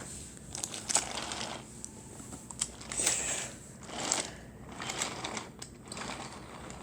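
Wooden toy train rolling along wooden track, its wheels clattering with irregular clicks over the track.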